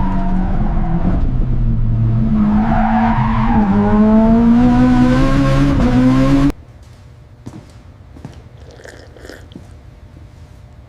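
Race car engine running hard, its pitch steady and then climbing as it revs up, with some tyre or road noise. It cuts off abruptly about two-thirds of the way through, leaving a much quieter background with a few faint clicks.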